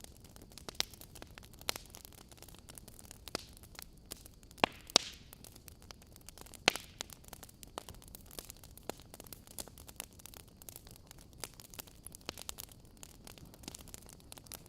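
Wood fire crackling: irregular sharp pops and snaps over a steady low hiss, the loudest pops a little past four and a half seconds and near seven seconds in.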